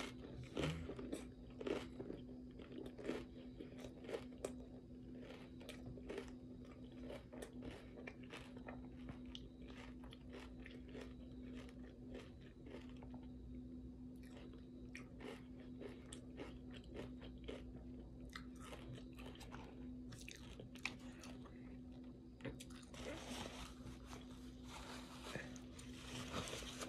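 Close-miked chewing of a mouthful of taco salad with tortilla chips: many short crisp crunches and wet mouth clicks over a steady low hum. Near the end a paper towel rustles as she wipes her mouth with it.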